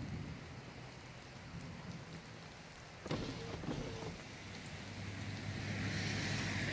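Steady rain falling in a thunderstorm, with the tail of a thunder rumble dying away in the first second. A sudden knock comes about three seconds in, and a hiss with a low hum swells near the end.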